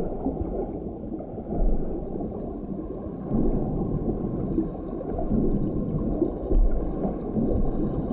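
Underwater ambience: a low, muffled rush of moving water that swells and eases in level, with no clear tones.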